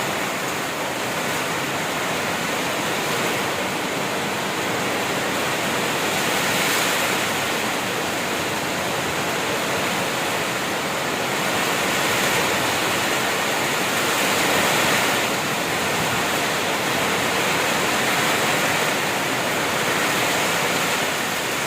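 Heavy tropical rain pouring steadily, a dense even hiss that swells slightly now and then.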